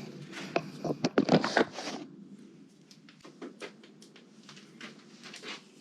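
Clicks and knocks of wiring and small parts being handled at a motorcycle's front end: a cluster of sharper knocks between about half a second and two seconds in, then faint scattered clicks.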